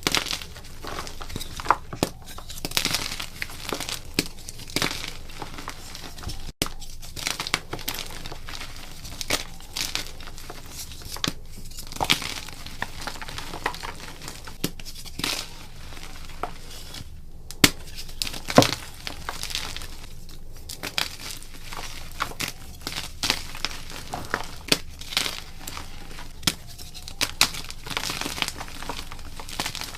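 Blocks of gym chalk being crushed and crumbled, a dense run of soft crunches and dry crackles with the sharpest snaps just past halfway.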